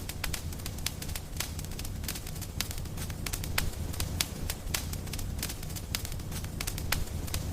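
Wood fire in a fireplace crackling, with many irregular sharp pops over a low, steady rumble of burning.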